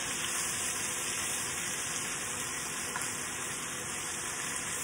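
Sliced leeks and garlic sizzling steadily in rendered chicken fat in an enameled Dutch oven.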